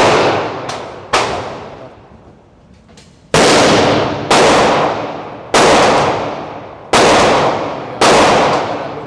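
Pistol gunshots at an indoor range: about seven shots fired singly, roughly a second apart, each with a long echoing decay in the room.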